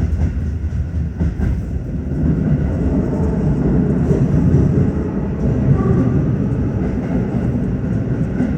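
Tokyo Metro 15000 series train running at speed, heard from inside the lead car: a steady rumble of wheels on rail, with a few sharp clicks in the first second or so.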